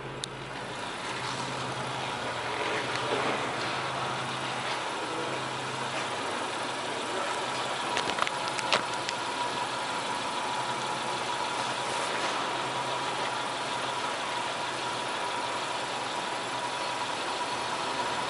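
Subaru Pleo kei car's 660 cc four-cylinder engine idling steadily, heard at the exhaust, with a few short clicks about eight to nine seconds in.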